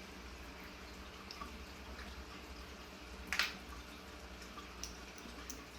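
A pet bird picking at seeds in a cup: a few faint clicks and one short, sharper tick about three and a half seconds in, over a steady low room hum.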